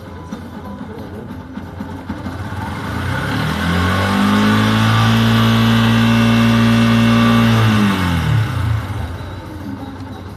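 Motorcycle engine idling, then revved up about three seconds in. It holds at a steady high pitch for about four seconds, then drops back to idle.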